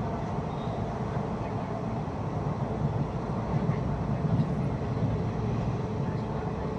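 Steady low rumble of an approaching train, growing a little louder about halfway through.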